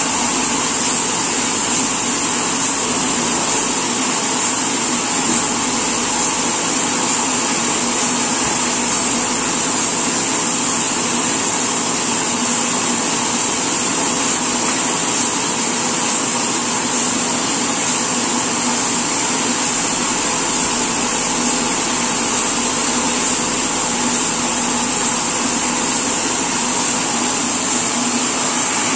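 Sawmill machinery running steadily: a continuous mechanical drone with a constant high whine, and no rise or fall in load.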